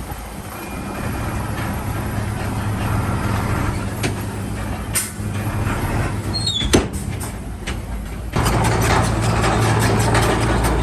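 Heavy diesel engine of earthmoving machinery running steadily, with a few sharp knocks and a short falling squeal about two-thirds of the way through. About three-quarters of the way in, the engine suddenly gets louder and stays that way.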